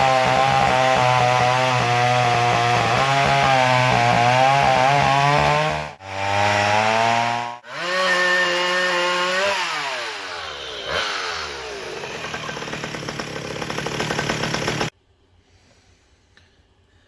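Two-stroke chainsaw engine running at high revs, with two brief breaks, then dropping in pitch as it comes off throttle and running lower until it cuts off suddenly.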